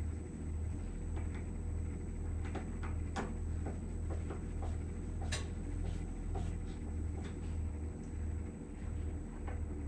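Scattered light clicks and knocks, the sharpest about three and five seconds in, over a steady low hum and a faint high whine.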